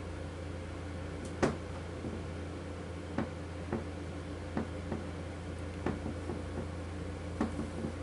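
A steady low hum runs throughout, with a dozen or so light, sharp taps and clicks scattered through it; the loudest comes about a second and a half in.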